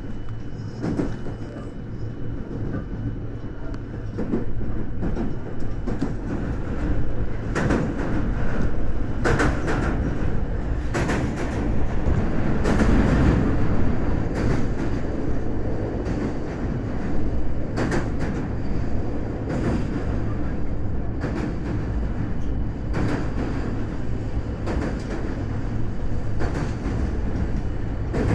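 Passenger train running at speed, heard from inside the carriage: a steady rumble of wheels on rail, with sharp clacks every second or two as the wheels pass over rail joints. The rumble swells about halfway through.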